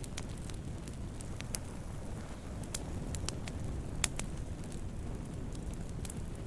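Wood campfire burning: a steady low rush of flames with scattered sharp crackles and pops, the loudest pop about four seconds in.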